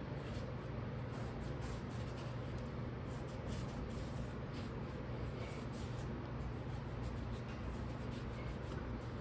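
Steady scratchy scraping over a low hum: cleaning rust and grime off the rear wheel-bearing mounting surface before the new bearing goes on.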